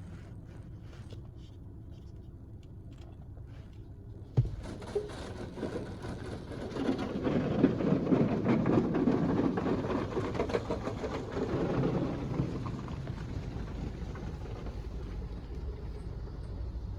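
D&S IQ 2.0 soft-touch in-bay car wash running a cycle over the car: a low hum, then a sharp knock about four seconds in and a dense rush of wash noise that builds to its loudest a few seconds later and then eases off.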